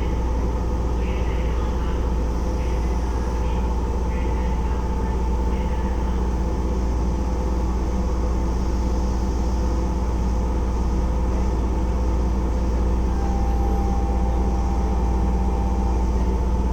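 Keisei 3400-series electric train running at speed, heard inside the car: a steady low rumble of the running gear, with a steady high whine from its field-chopper control, and a second, slightly lower tone joining near the end.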